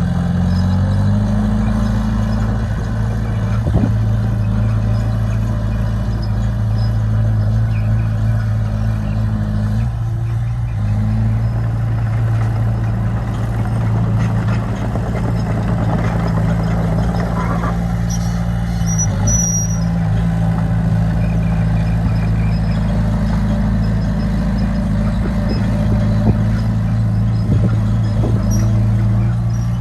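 Heavy-equipment diesel engine running steadily with a low hum. It drops off briefly about ten seconds in, and a short high squeak sounds near twenty seconds.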